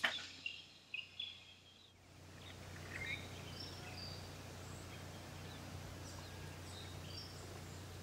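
Faint, scattered short bird chirps and whistles over a low steady hum.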